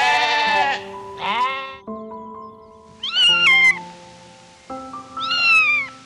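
A goat bleating twice with a wavering voice, then, about three seconds in, a cat meowing twice, each meow falling in pitch. Background music with long held notes plays underneath.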